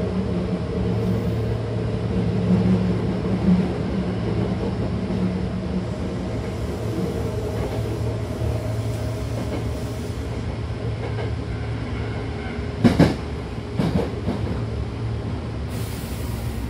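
Hankyu commuter train running, heard from inside the carriage: a steady rumble with a low, steady motor hum. Two short loud knocks come about 13 and 14 seconds in, and a brief hiss follows near the end.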